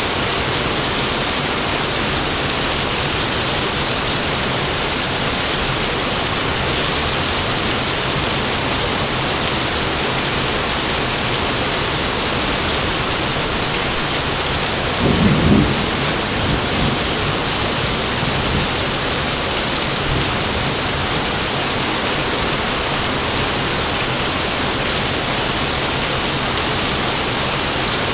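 Heavy rain falling steadily, with one low rumble of thunder about halfway through that fades over a second or two.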